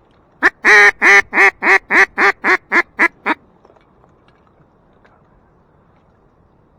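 A duck call blown to imitate a hen mallard's quacking: a loud run of about eleven quacks, a long first note and then shorter ones at about four a second, easing off slightly toward the end, calling to mallards circling the decoys.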